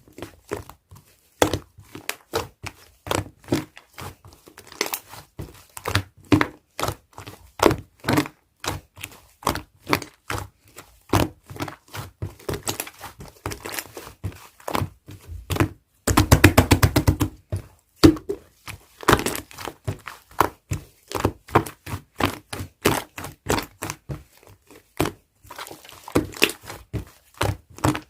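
Slime being mixed and pressed by hand, giving a steady run of sticky clicks and pops, two or three a second. About sixteen seconds in comes a quick burst of rapid popping for a second and a half.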